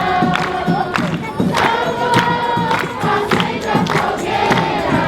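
A group of voices singing together, holding long notes over a steady percussion beat.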